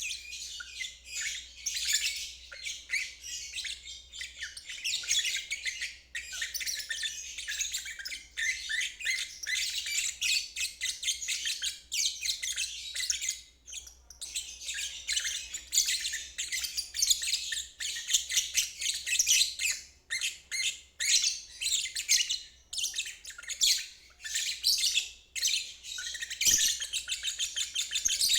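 Lovebird singing its long ngeriwik song, a dense, rapid chattering of high chirps that runs on with only brief pauses.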